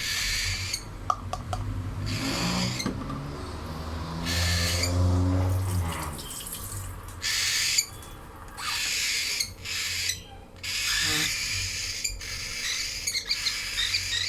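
Cockatiel chicks giving raspy, hissing begging calls in repeated bursts of about a second each while being hand-fed formula.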